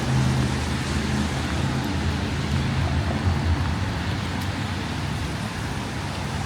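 City street traffic: a motor vehicle's engine running close by, its low hum strongest in the first second or so, over a steady hiss of traffic.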